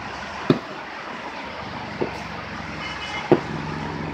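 Aerial firework shells bursting: three sharp bangs about a second and a half apart, over a steady background noise.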